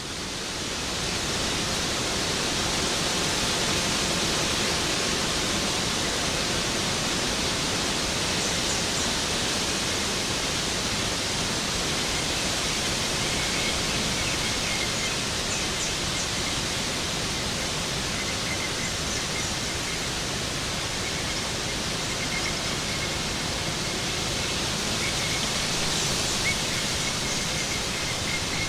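Waterfall: a steady, even rush of falling water, swelling in over the first second or two.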